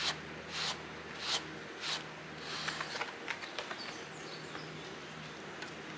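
Japanese katydid (kirigirisu) chirping in a run of short, high, buzzy pulses a little over half a second apart, which stop about two seconds in; a few faint bird chirps follow, over a steady low hum.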